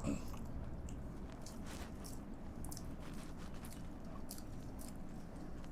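A person chewing food close to the microphone: soft, irregular wet mouth clicks and smacks, over a faint steady low hum.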